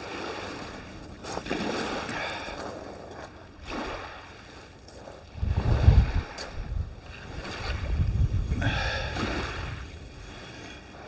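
Waves on the shore with wind buffeting the microphone, a strong gust about halfway through.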